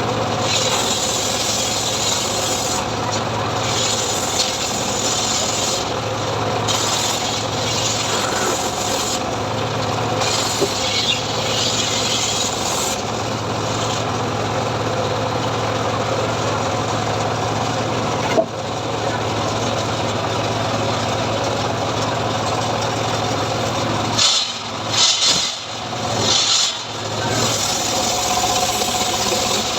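Homemade engine-driven log saw (gergaji srekel) running and cutting sengon wood: a steady engine hum with a rasping sawing noise that comes and goes in stretches of a few seconds. The sound drops out briefly several times near the end.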